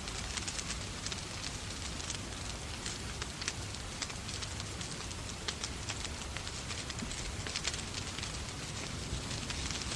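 Wood fire crackling in a fireplace, with irregular sharp pops and snaps over a steady hiss of rain.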